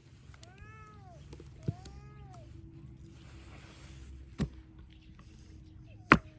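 A cat meowing twice, each call rising and falling in pitch, followed by a few sharp knocks, the loudest near the end.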